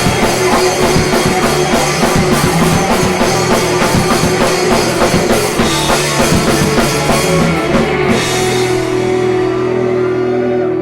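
Live three-piece pop-rock band playing: drum kit and electric guitar drive on until about eight seconds in, when the drums stop and a held chord rings out, the close of the song.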